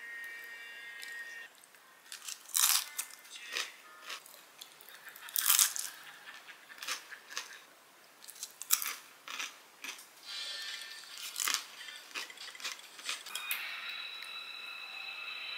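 Close-up crunching bites and chewing of a crispy shredded-potato pancake (gamjachae-jeon), a dozen or so sharp, loud crunches at uneven intervals.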